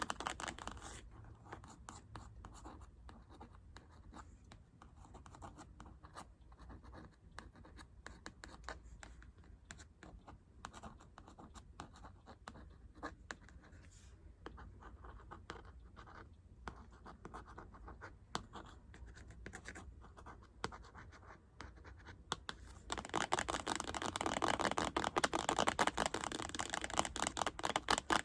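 ASMR scratching and light tracing, a dense run of small scratchy strokes and taps, growing louder and denser about 23 seconds in.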